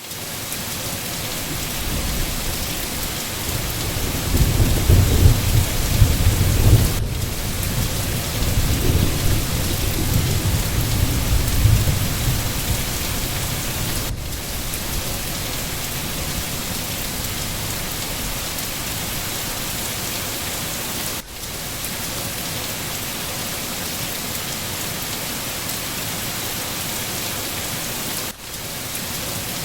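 Steady heavy rain hiss, with a low rumble of thunder rolling for several seconds early on. The hiss briefly dips every seven seconds or so.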